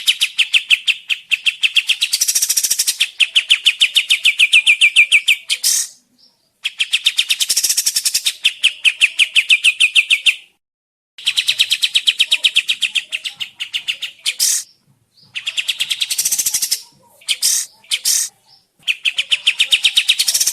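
Kapas tembak bulbul singing a fast, rapidly repeated chattering trill, about ten notes a second, in runs of four to five seconds with short breaks between them.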